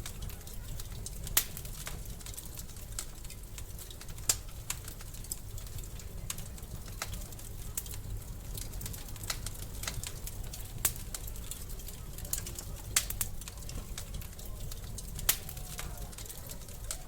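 Wood fire crackling in a fireplace: irregular sharp pops and snaps over a steady low rumble, with louder pops about a second in, around four seconds, near eleven seconds and around fifteen seconds.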